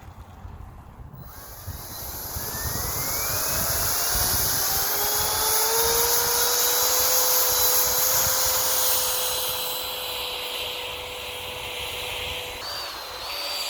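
Electric ducted fan of an RC jet car spooling up: a whine and rushing hiss that rise in pitch over a few seconds, then hold at a steady high whine and ease off slightly near the end.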